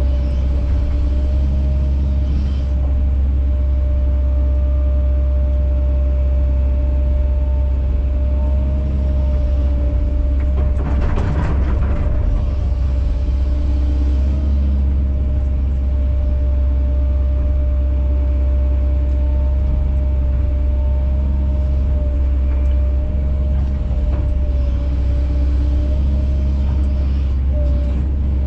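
Kobelco SK210 hydraulic excavator running steadily: a heavy engine drone with a steady whine over it. A brief louder burst of noise about eleven seconds in.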